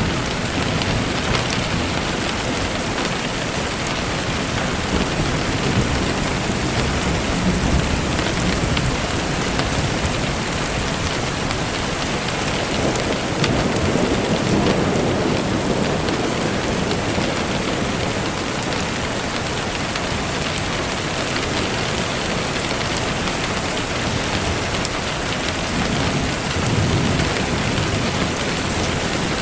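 Steady rain falling, with low rumbles of distant thunder swelling up around the middle and again near the end.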